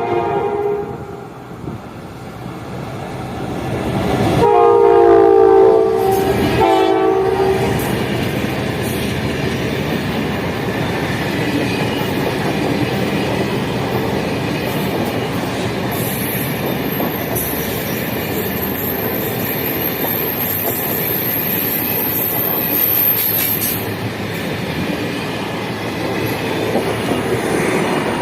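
General Electric diesel locomotive sounding its horn: a brief note at the start, then two longer blasts about four to seven seconds in. The train then runs past with a steady rumble and wheels clacking over the rail joints.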